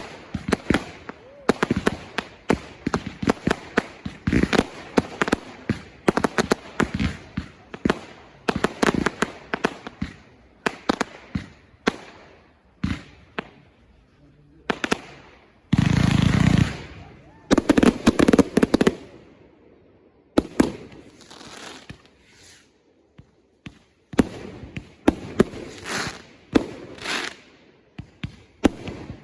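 Consumer fireworks going off in quick succession: a rapid run of sharp bangs and crackles, with one loud, dense blast about halfway through and a brief lull before the bangs pick up again.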